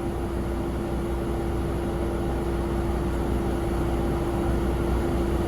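Steady mechanical hum with one constant mid-pitched tone over a low rumble, slowly growing louder.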